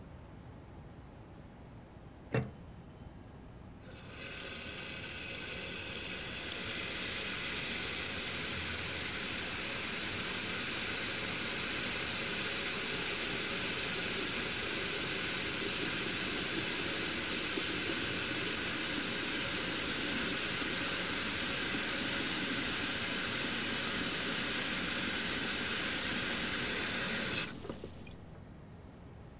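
Shower spray hissing and splashing, with a single sharp click a couple of seconds before the water comes on. The spray swells over the first few seconds, runs steadily, and stops abruptly near the end.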